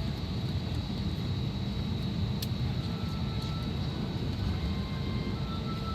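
Airbus A321neo cabin noise while taxiing: a steady low rumble with a faint steady whine above it, and a single sharp click about two and a half seconds in.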